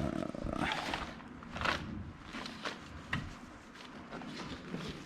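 A thump, then scattered short scrapes and clicks of the seat and its parts being handled and shifted.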